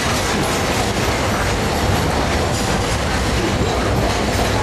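Walt Disney World Railroad train rolling along, a steady rumble of wheels on the track with the clack of rail joints.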